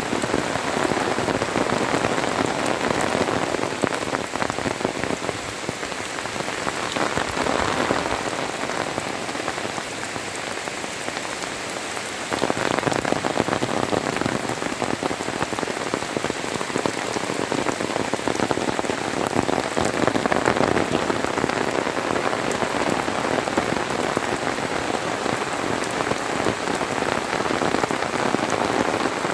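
Heavy rain pouring down in a dense, steady patter of drops, which gets louder about twelve seconds in.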